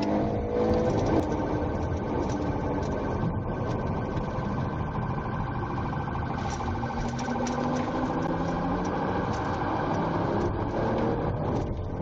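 Patrol car driving fast in a pursuit, heard from inside the cabin: steady engine and road noise.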